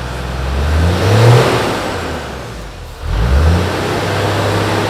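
Toyota Land Cruiser 80's 1HD-FT 4.2-litre turbo-diesel straight-six revved twice through its stock 2.5-inch exhaust, which is cut off behind the first silencer box. The engine climbs to a peak about a second in and drops back, then revs up again about three seconds in and holds there.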